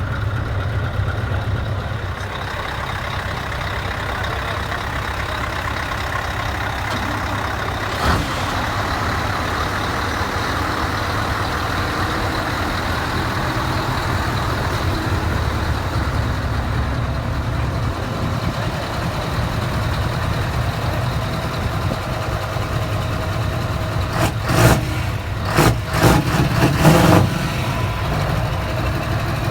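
Heavy truck's diesel engine running steadily, with a single sharp knock about eight seconds in and a cluster of short, loud bursts a few seconds before the end.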